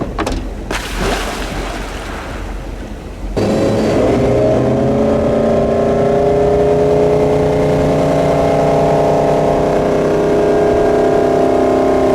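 Wind and water rushing for about three seconds, then a towboat's inboard engine running at a steady, high pull speed, with the pitch dropping sharply near the end as it is throttled back.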